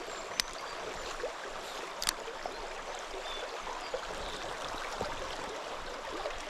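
Small mountain stream flowing steadily over its bed, with two sharp clicks, one near the start and one about two seconds in.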